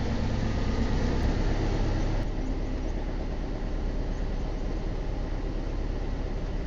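Boat engine running steadily with a low rumble under a broad hiss; the hiss drops away abruptly about two seconds in while the rumble carries on.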